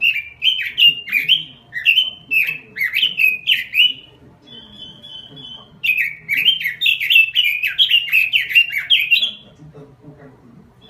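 Red-billed leiothrix (Pekin robin) singing: two bouts of rapid, repeated down-slurred notes, with a short, even trill between them.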